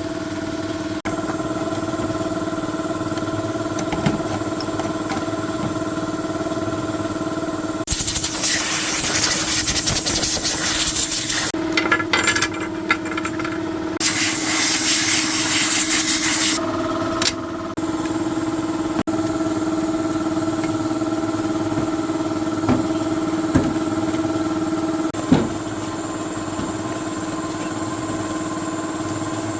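A machine motor running steadily with a constant hum, broken twice by several seconds of loud hissing that starts and stops abruptly.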